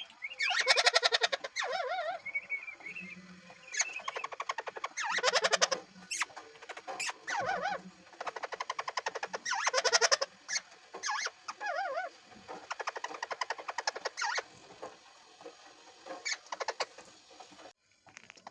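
Pet parrot calling: a series of harsh, rasping screeches and chatters, each about half a second to a second long, with short pauses between them.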